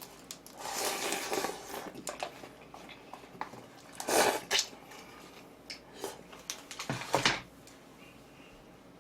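Close-miked eating sounds: a few wet, noisy mouthfuls of chewing or slurping, loudest about four seconds in and again near seven seconds, with small clicks between them.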